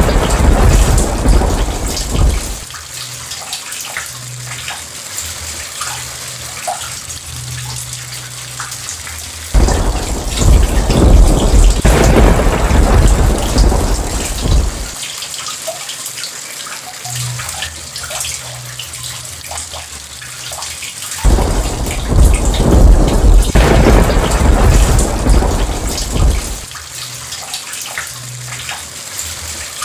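Steady rain with thunder rolling three times, each roll lasting about five seconds: one dying away about two and a half seconds in, then new rolls breaking in at about ten and twenty-one seconds.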